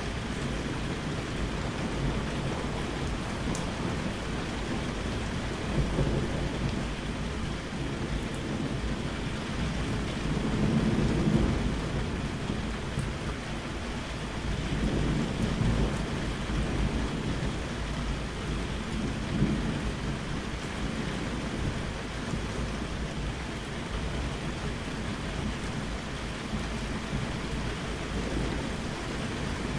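Steady heavy rain with rolling thunder: low rumbles swell and fade several times, strongest around the middle.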